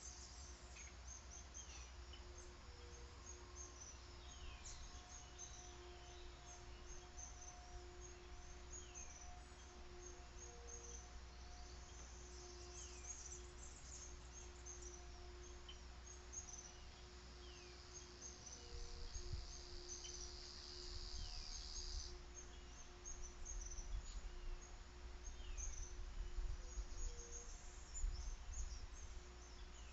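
Wild birds chirping and calling outdoors, with many short high chirps and an occasional falling whistle, over a bed of insects and a faint steady hum. A high insect buzz runs for several seconds in the middle, and low rumbles come and go in the second half.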